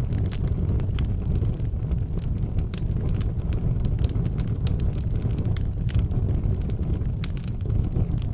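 Fire crackling in an outdoor fireplace: frequent sharp crackles and pops over a steady low rumble.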